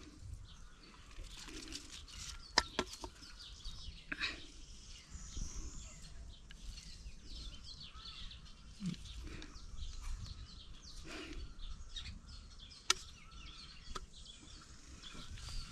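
Faint outdoor ambience with birds chirping. A few sharp knocks or clicks fall at irregular moments.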